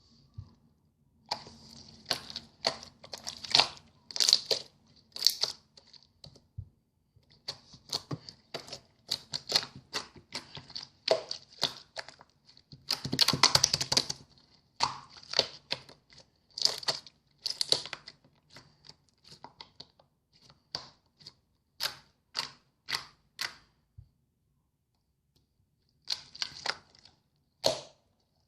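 Hands squishing and pressing clear slime mixed with shell-shaped charms: irregular sticky clicks and pops, with a dense crackling run about halfway through. A faint low hum sits underneath for much of it.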